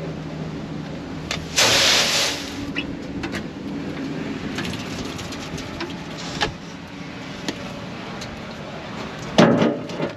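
Tractor engine running steadily, with a short loud rush of noise about one and a half seconds in and a louder clatter near the end.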